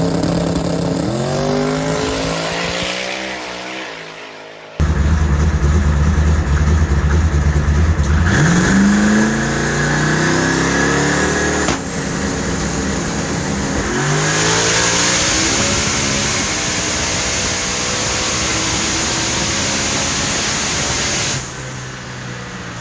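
Twin-turbocharged Dodge Charger Hellcat V8 drag car at full throttle, its engine pitch climbing again and again as it runs through the gears. The sound jumps abruptly several times, as if cut between shots.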